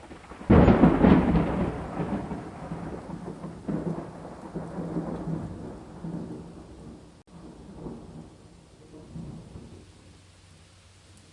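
A sudden thunderclap about half a second in, followed by rolling thunder rumbles that swell and fade over several seconds, with steady rain falling underneath.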